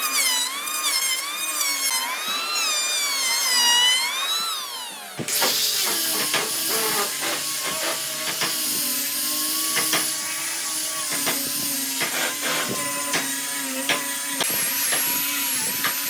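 Power tool working wood. For about five seconds its high whine rises and falls in pitch as it is loaded and eased. Then it changes suddenly to a steadier running sound with many sharp clicks and knocks.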